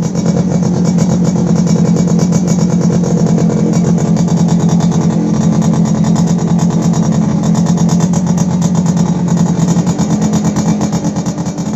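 Suzuki Satria two-stroke motorcycle's exhaust running loud at fairly steady revs, a dense, rapid popping note.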